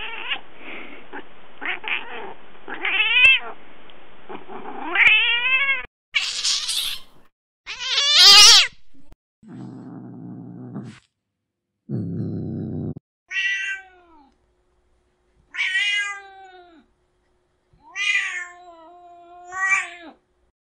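A string of recorded angry cat sounds changing from clip to clip. First comes a run of drawn-out yowls that rise and fall in pitch. Then two short harsh noisy bursts and a loud yowl, two low buzzing growls, and four high wavering meowing wails spaced a couple of seconds apart.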